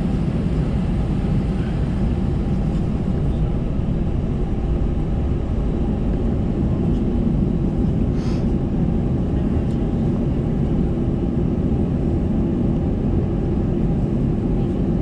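Cabin noise of an Airbus A320-214 taxiing: a steady low rumble from its CFM56 engines at idle thrust and the air-conditioning, heard from a window seat. A brief, short, higher sound cuts through about halfway.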